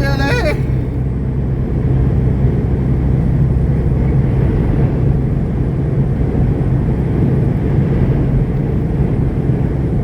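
Semi truck engine and road noise while driving: a steady low rumble.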